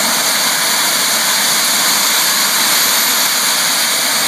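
RC jet's miniature turbine engine running steadily after start-up: a loud, even rushing hiss with a faint high-pitched whine above it.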